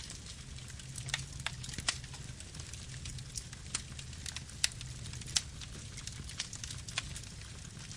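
Campfire burning: irregular sharp crackles and pops of burning wood over a low, steady rumble, with two louder pops near the middle.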